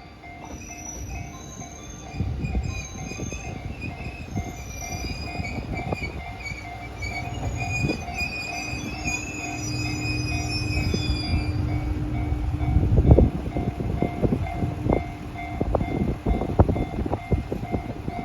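KiHa 122 diesel railcar running on the track, its rumble building up, then a dense run of clacks over the rail joints, loudest about two-thirds of the way in.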